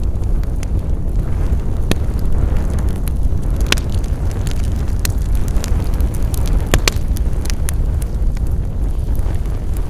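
Wood fire burning with a steady low rumble of flames and irregular sharp crackles and pops, the loudest at about two, four and seven seconds in.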